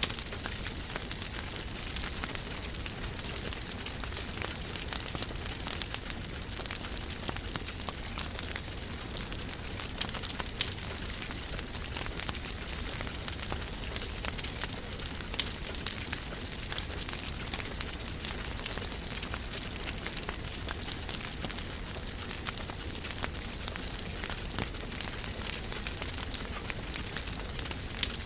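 Wood fire crackling in a fireplace: a steady soft hiss with many small ticks and now and then a louder sharp pop.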